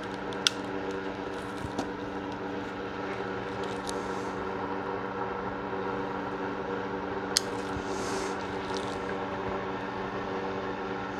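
A steady machine-like hum with several even tones, with two sharp small clicks, one about half a second in and one about seven seconds in.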